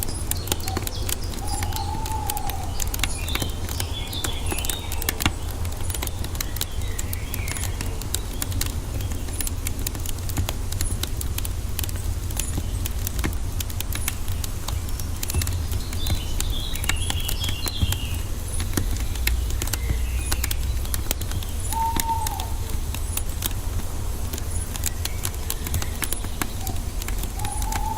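Wood fire crackling with many small pops over a low rumble, while birds call: a short arched call three times and bursts of twittering a few seconds in and again past the middle.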